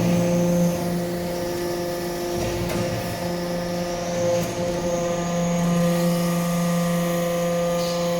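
Hydraulic metal-chip briquetting press running: its hydraulic pump and motor give a steady, even hum, with only small swells in level.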